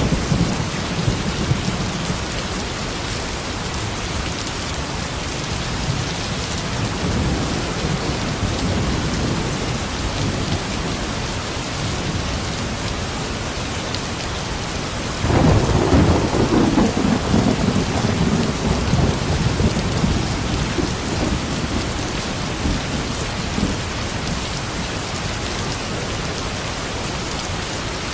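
Steady rain pouring with thunder rumbling low under it. About halfway through, a loud peal of thunder breaks in suddenly and rolls on for several seconds before fading back into the rain.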